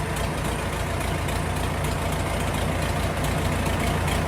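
Old John Deere diesel tractor engine idling steadily.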